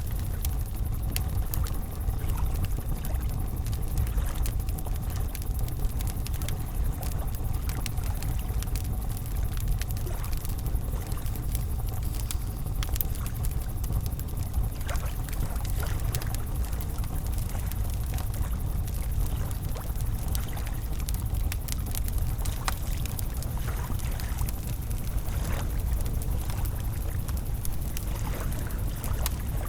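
Wood campfire crackling with scattered sharp pops and ticks over a steady low rush of flowing river water.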